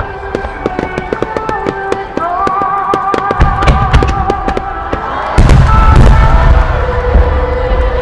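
Aerial fireworks barrage: a rapid string of shell bursts and sharp crackles, with heavy low booms coming in about three and a half seconds in and again about five and a half seconds in. Music from loudspeakers plays along under the bursts.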